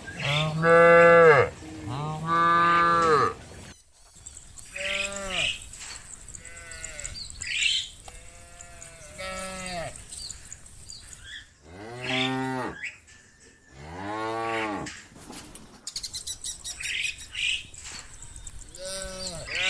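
Herd of cows mooing, long calls one after another from several animals at different pitches. The two loudest come in the first few seconds, and softer moos follow every couple of seconds after that.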